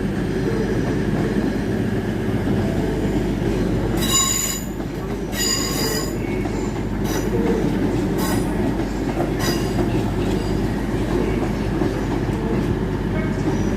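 Train moving over the rails with a steady low rumble, its wheels squealing in four short high-pitched bursts.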